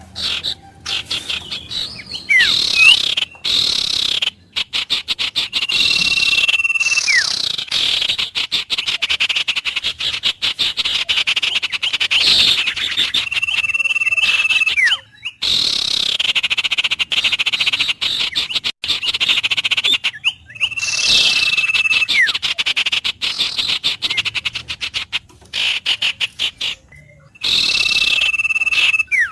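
Wild birds calling with a fast, continuous chatter, broken by a held whistle note that comes back about every seven to eight seconds.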